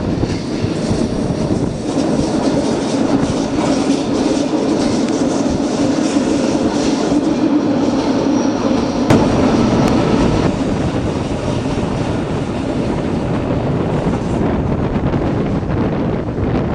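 Train running along the rails, a steady rumbling wheel noise, with a sharp click about nine seconds in.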